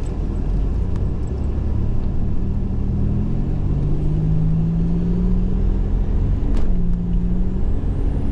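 1987 Buick Grand National's turbocharged 3.8-litre V6 accelerating under load, heard from inside the car. Its pitch rises steadily for a few seconds, then drops back with a short click about two-thirds of the way through, and the engine keeps pulling.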